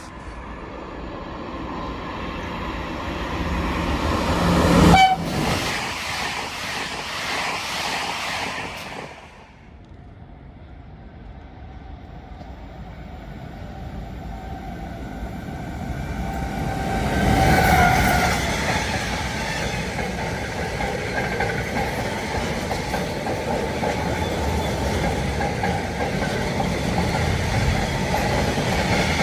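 Trains passing on the line, their wheels rolling and clattering over the rails. The sound builds to a short horn note about five seconds in and cuts off suddenly near nine seconds. A second passage then builds up, with another short horn-like tone around eighteen seconds, and keeps rolling steadily.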